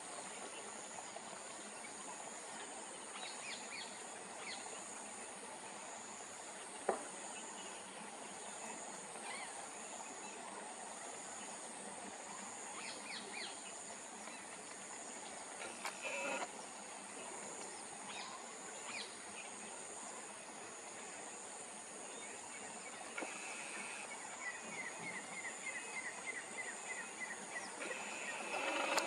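Outdoor wetland ambience: a steady, high insect drone, with scattered short bird chirps and a rapid trill of repeated notes near the end. A single sharp click comes about a third of the way in.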